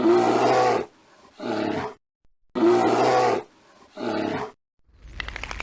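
Dinosaur roar sound effect: a long roar followed by a shorter one, the same pair played twice.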